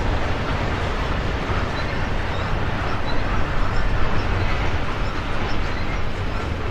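Long container freight train rolling past, a steady rumble and rattle of wheels on the rails.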